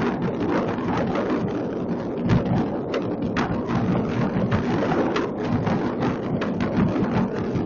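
Many fireworks going off across a city at once: an unbroken din of crackling and popping, with scattered heavier booms.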